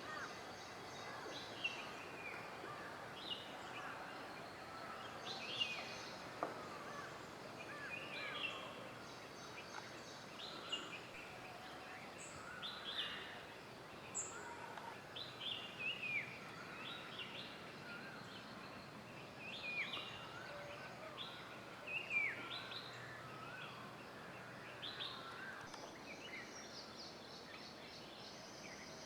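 Several wild birds calling in a forest: short chirps and whistles, many sliding downward in pitch, from more than one bird, scattered throughout over a steady faint background hiss.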